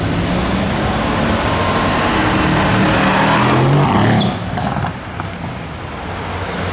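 Mercedes-AMG C63 estate's twin-turbo V8 accelerating hard as it pulls away, its engine note rising for about four seconds. It then lifts off, and the sound drops and fades as the car drives off.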